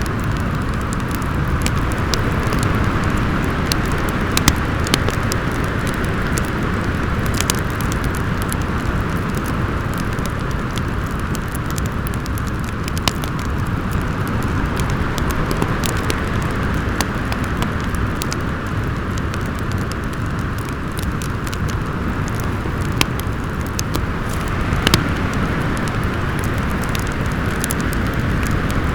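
Storm wind howling steadily with a deep rumble, over a crackling wood fire that gives scattered sharp pops throughout.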